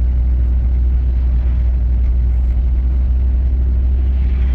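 Steady low rumble of a car driving, heard inside the cabin: engine and road noise with no change in pace.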